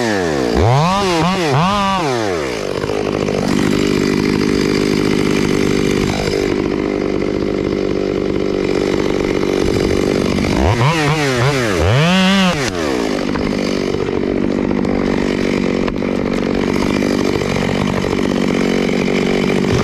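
Chainsaw cutting into a tree trunk, the engine running steadily under load. Twice, about a second in and again around eleven seconds in, the revs drop and climb back sharply several times as the throttle is blipped.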